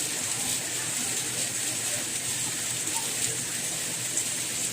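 Steady rain: an even, dense hiss with faint scattered droplet ticks.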